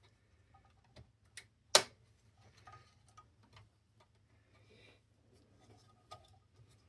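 Scattered small clicks and taps of hands working on parts inside a CD changer as a cable is plugged back in, with one sharp, loud click just under two seconds in.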